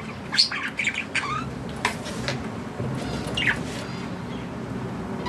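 Budgerigar chirps and squawks: short calls come in a quick cluster in the first second and a half, then a few scattered ones follow.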